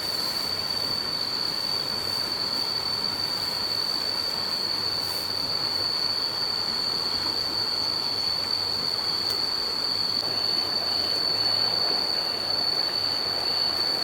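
A steady high-pitched whine on one unchanging note, over an even rushing noise.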